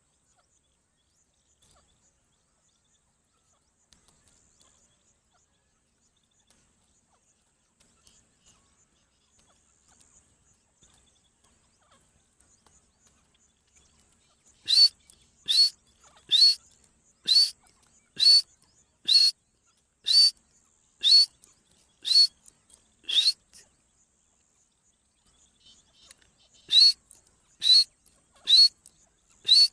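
A teetar partridge calling: a run of about ten loud, sharp calls, roughly one a second, starting about halfway through. After a short pause the series starts again near the end. The first half holds only faint chirps.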